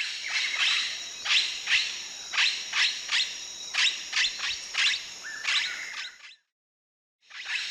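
Blue-headed parrot giving a series of short, sharp calls, about two a second, each sweeping quickly down in pitch, over a steady high insect drone. The calls cut off about six seconds in and start again near the end.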